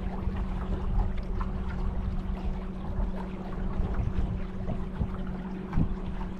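Boat motor running at a steady pitch, with wind and water rushing past.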